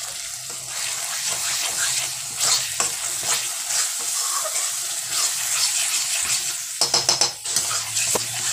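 Ground spice paste sizzling in hot oil in a metal kadai while a flat metal spatula stirs it, with repeated scraping strokes against the pan.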